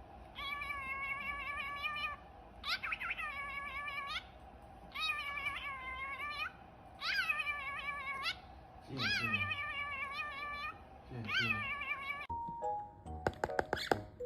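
A series of about six long, meow-like animal calls, each rising sharply and then held at a steady pitch, about two seconds apart. Near the end, a burst of clicks and a few short musical notes.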